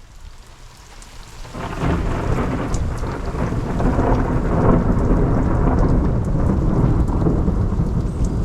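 Thunder from a thunderstorm: faint at first, then a loud, low rumble that breaks in about a second and a half in and rolls on steadily, with rain falling.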